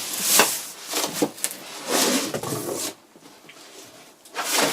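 Cardboard box and packaging being handled: rustling and scraping in bursts, a short lull, then a louder rustle near the end.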